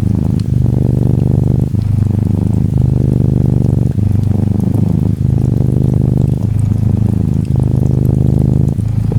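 Cat purring loudly and steadily in long strokes that alternate with each breath in and out, a brief dip between strokes about every second. Gentle rain patters faintly behind it.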